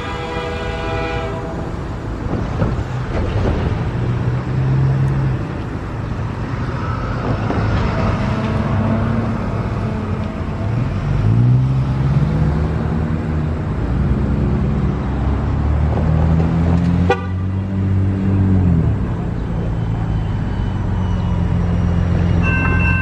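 A train horn chord that cuts off about a second in, then a train passing: locomotive engines running over a steady rumble of rolling noise, their pitch gliding up and down. A sharp click comes about three-quarters of the way through, and another set of steady tones starts near the end.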